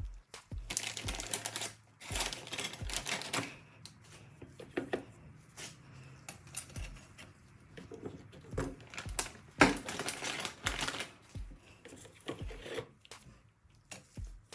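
Metal clutch plates clicking and clattering as they are handled and stacked into a 722.9 automatic transmission's clutch pack, over background music with a steady low beat.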